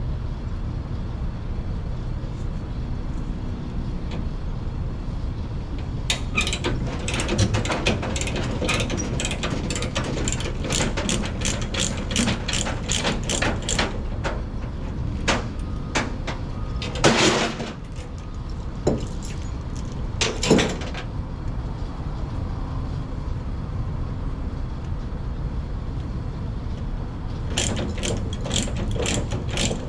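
Tie-downs being released on a flatbed trailer: a run of rapid ratcheting clicks for several seconds, metal clanks of chain and binder hardware, over the steady low rumble of the idling truck.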